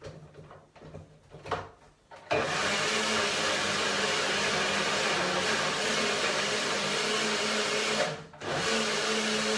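Blender running, whizzing eggs, banana and protein powder into pancake batter; a few knocks come first, then it starts about two seconds in, runs steadily, stops briefly near the end and starts again.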